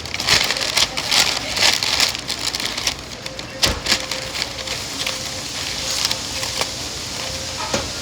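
Close-up chewing of crunchy food, a few crunches a second for the first few seconds, then softer chewing with occasional clicks.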